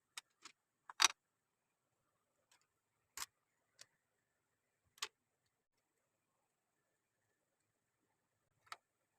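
Plastic Lego pieces clicking and knocking together during assembly: scattered short, sharp clicks at irregular intervals, the loudest a quick pair about a second in.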